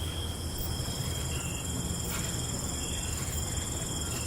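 Night chorus of crickets and other insects: several steady high-pitched trills at different pitches, over a low even rumble.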